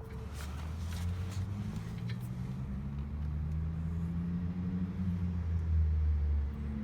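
A motor vehicle's engine running: a steady low hum that grows gradually louder, with a few faint clicks over it.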